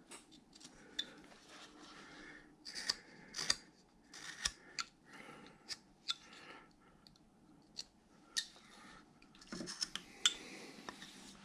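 A hand carving tool cutting into wood: a series of short, irregular slicing and scraping strokes as the hand and arm are cut back and recessed under the sleeve.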